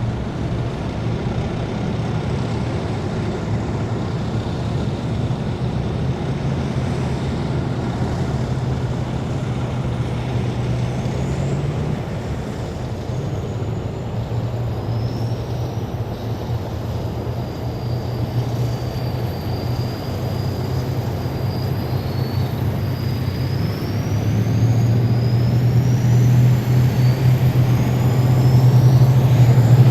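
Heavy military vehicles' engines droning steadily as a column drives past. The drone grows louder in two steps near the end as the next vehicles come close.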